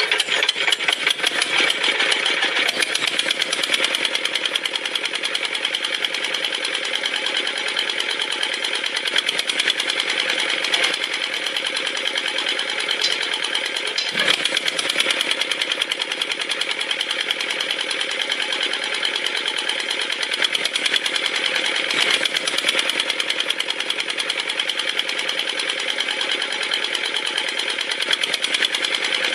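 Homemade model diesel-engine water pump running with a fast, steady mechanical clatter.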